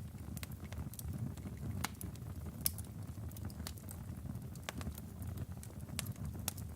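Burning logs in a fireplace crackling, with irregular sharp pops and snaps over a steady low rumble of the flames.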